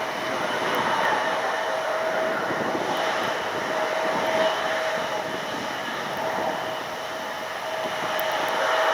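Jet aircraft engines running: a steady rushing noise with a constant whine on top.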